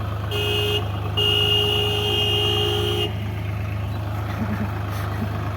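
Vehicle horn sounding twice, a short toot and then a long blast of about two seconds, over an engine running with a steady low hum.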